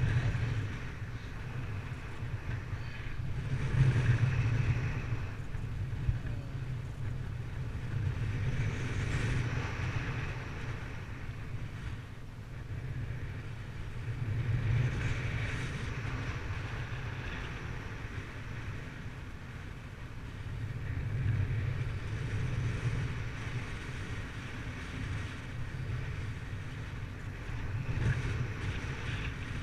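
Wind rushing over the microphone in flight: a low rumble with a hiss on top, swelling and easing every several seconds.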